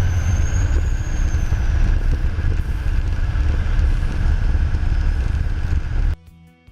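Caterpillar D10 bulldozer running with a deep, steady rumble, and a faint high whine that rises and falls over the first two seconds. The machine sound cuts off suddenly about six seconds in, and quiet guitar music follows.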